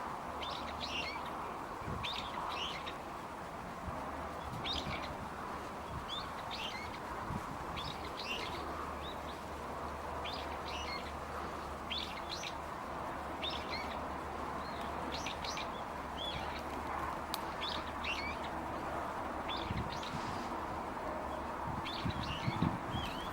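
A small bird calling with short, sharp chirps, repeated about once a second, over a steady background hiss.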